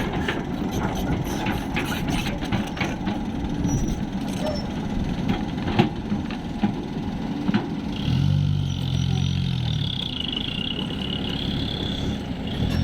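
Truck engine running in a steady rumble, with scattered sharp knocks and clatter; about eight seconds in, a heavier, steadier engine note comes in.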